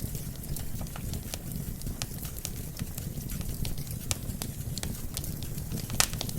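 Wood fire crackling: frequent sharp, irregular pops and snaps from burning logs over a low, steady rumble, with one louder pop near the end.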